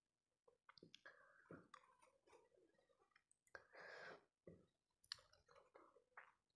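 Faint close-miked eating sounds: wet mouth clicks and smacks of chewing fish curry and rice eaten by hand, with one longer, noisier sound about halfway through.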